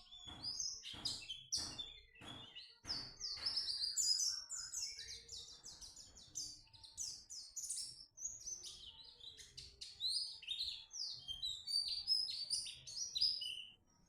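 A pleci (white-eye) singing a fast, high, varied song with canary-like phrases: sharp separate chirps for the first few seconds, then a continuous rapid warbling chatter.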